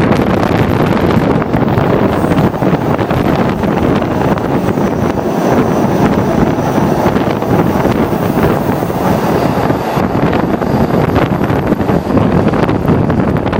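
Steady running noise of a moving Vale EFVM passenger train, with wind buffeting the microphone.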